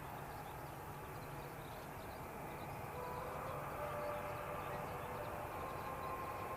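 Distant Boeing 777 jet airliner on approach: a steady rumble over outdoor background noise. About halfway through, a faint steady engine whine starts to come through and slowly grows.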